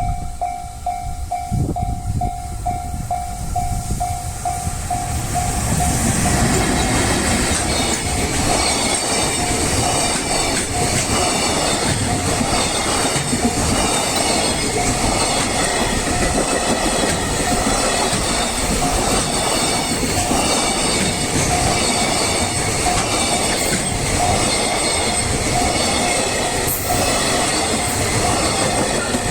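A level-crossing warning bell rings as a steady pitched tone. About six seconds in, a long train arrives and passes over the crossing, its wheels clattering over the rail joints, with a high, thin wheel squeal laid over the noise.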